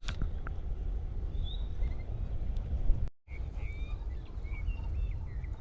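Small birds chirping in short, high notes over a steady low rumble of wind. The sound cuts out briefly just after three seconds in, and the chirping is busier after that.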